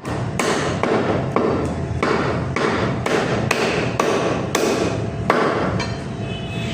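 Butcher's cleaver chopping mutton, with repeated sharp blows about two a second.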